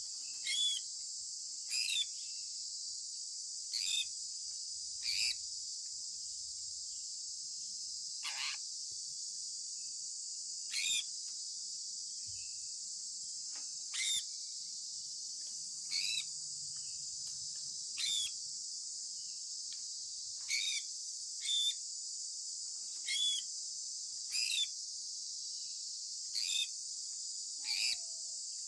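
Sun conure parrot giving short chirps that fall in pitch, one every second or two, over a steady high insect chorus like crickets.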